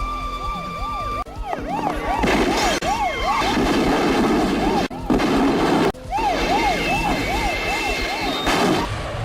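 Emergency vehicle siren in yelp mode: fast, repeated up-and-down wails, about four a second, over a noisy background. It is broken by a few sudden cuts.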